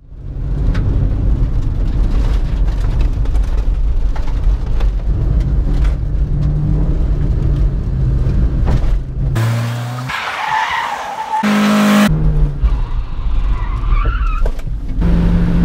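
Citroen Berlingo 1.6i's four-cylinder petrol engine running under load, heard from inside the cabin, in a string of short clips that change abruptly. Tyres squeal briefly about ten seconds in and again near the end.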